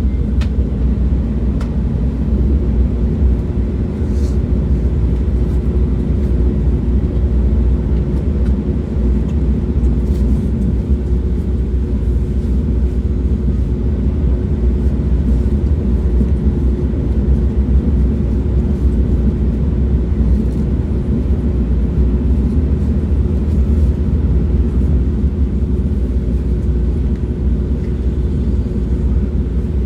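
Moving train running with a steady low rumble; a faint steady hum joins in a couple of seconds in, with a few light clicks.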